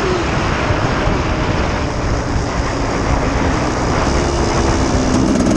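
1989 Honda CR250's single-cylinder two-stroke engine running, its pitch climbing slightly near the end as it is revved.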